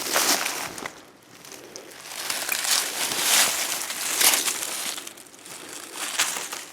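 Footsteps crunching and rustling through dry leaves and brush, in uneven swells.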